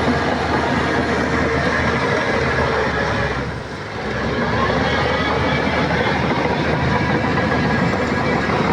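Shantui crawler bulldozer working, its diesel engine running steadily with continuous machine noise. The noise dips briefly about three and a half seconds in, then picks up again.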